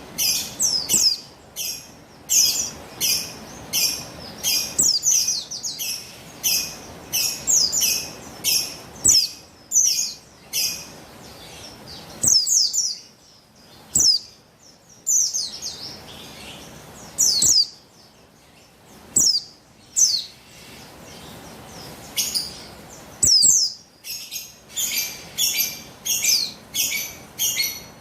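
Female buxtoni white-eyes (pleci) calling in quick series of short, high, downward-slurred chirps. The calls come thick and fast at first, thin out to scattered single chirps in the middle, and crowd together again near the end. This is the female call keepers use to lure males into song.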